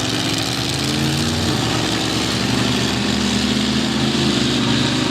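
Monster truck engines at full throttle, accelerating hard off the start line in a drag race; the engine note climbs about a second and a half in, then holds steady.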